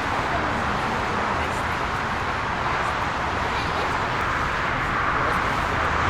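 Steady rushing roar of a jet airliner's engines, growing slightly louder near the end.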